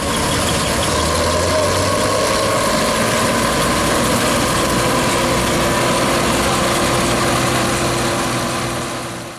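Diesel engine of a Bizon ZO 56 combine harvester running steadily, fading out near the end.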